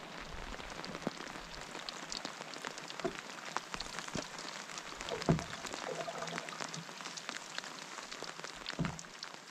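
Steady rain, with many separate drops ticking close by and a couple of louder thuds about five and nine seconds in.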